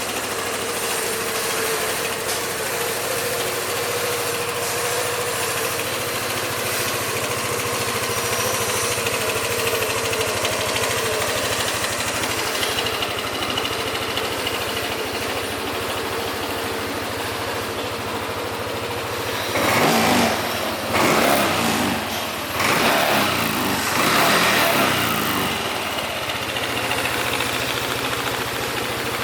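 Yamaha NMAX 125 scooter's single-cylinder four-stroke engine idling steadily, then revved four times in quick succession about two-thirds of the way in before settling back to idle.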